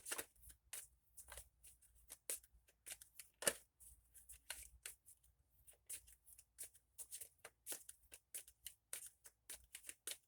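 Faint hand-shuffling of a tarot deck: a quick, uneven run of soft card slaps and riffles, with one sharper snap about three and a half seconds in.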